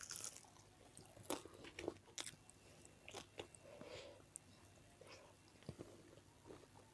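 Close-up mouth sounds of someone chewing fried chicken: soft, irregular wet clicks and small crunches, faint.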